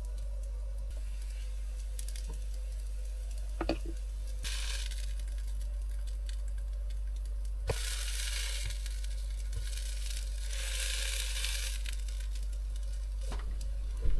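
Food frying in a pan, hissing in spells that start and stop abruptly, with a few light clinks of utensil on cookware over a steady low hum.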